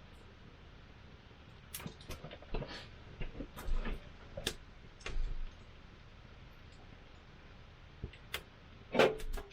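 Wood fire crackling, with irregular sharp pops and snaps and a quiet spell between them; the loudest pops come near the end.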